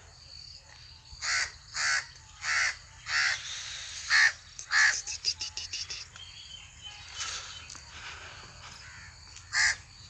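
A bird calling repeatedly outdoors: six loud calls in a row in the first half, a quick run of faint ticks just after, and one more call near the end.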